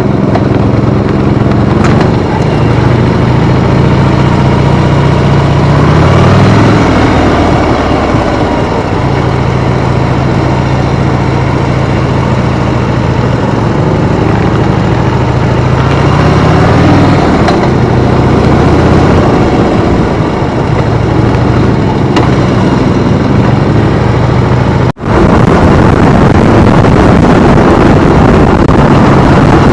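Harley-Davidson motorcycle's V-twin engine running on the road, its pitch climbing twice, around six and sixteen seconds in. About twenty-five seconds in, the sound cuts out for a moment and returns with more wind noise on the microphone.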